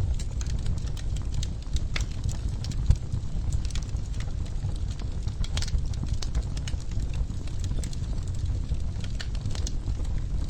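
Wood fire crackling in a fireplace: irregular sharp pops and snaps over a steady low rumble, with one louder pop about three seconds in.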